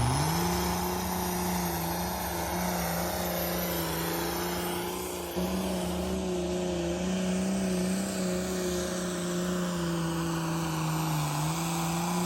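Pulling tractor's engine running hard at high, near-steady revs with a high turbo whistle; the revs dip briefly and climb back right at the start.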